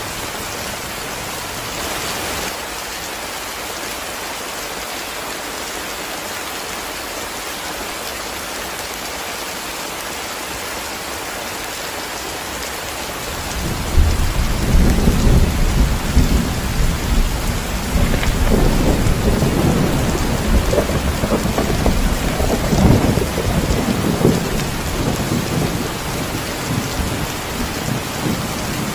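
Steady heavy rain, joined about halfway through by a long, low rolling rumble of thunder that swells and then slowly dies away.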